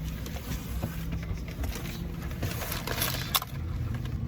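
Steady low rumble of road and engine noise inside a moving car's cabin, with a low hum for the first couple of seconds.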